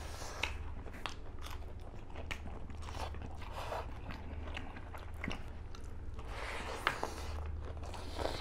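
Close-up eating sounds: two people chewing and crunching food, with short crisp crunches and mouth clicks scattered through, over a steady low hum.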